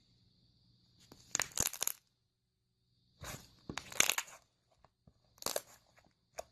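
Slime being squeezed and worked by hand, crackling and popping in several short bursts with quiet gaps between them.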